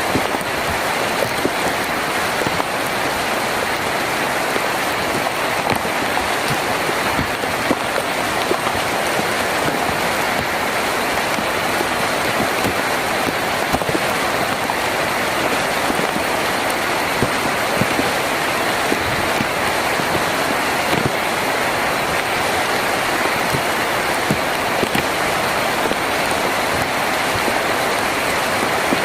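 Heavy rain falling steadily on a tin roof, a dense even wash of drops with scattered sharper drop hits.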